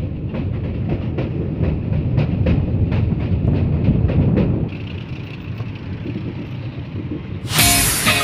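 Passenger express train running at speed over a bridge, its wheels clicking in a quick, even rhythm over a steady rumble; the clicking softens about two-thirds of the way through. Music cuts in loudly near the end.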